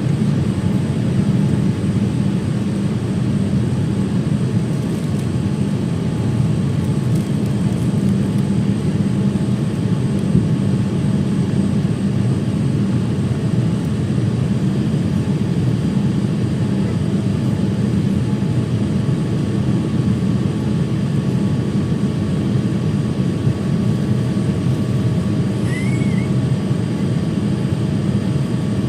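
Steady airliner cabin noise inside a Boeing 787-9: an even low rumble of engines and airflow with faint steady hums above it, unchanging throughout.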